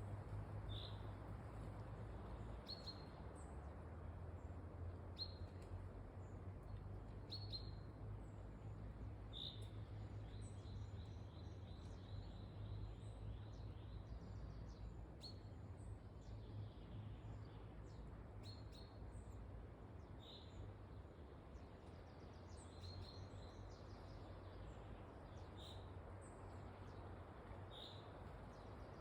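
Forest ambience in wind: a steady low rush of wind with small birds chirping every second or two, and a short rapid trill about ten seconds in.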